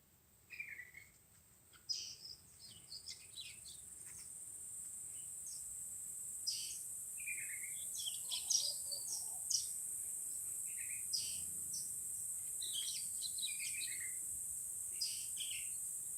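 Birds chirping in short, scattered calls over a steady high-pitched insect drone, which swells in a few seconds in and then holds.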